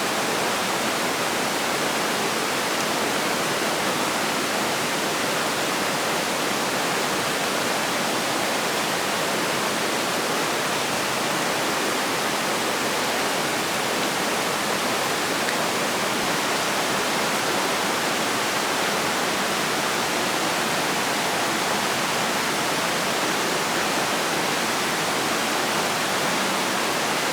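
A steady, even rushing noise with no breaks, clicks or changes in level throughout.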